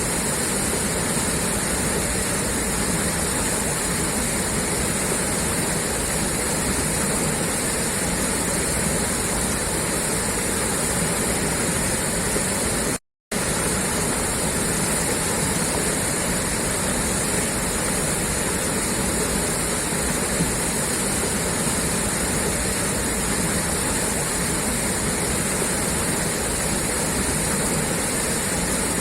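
Water gushing steadily out of a pipe, a constant rushing noise with no change in strength. It cuts out completely for a split second about thirteen seconds in, then resumes as before.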